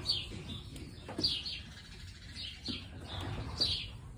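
Small birds chirping, short falling chirps that come in quick clusters of two or three every second or so.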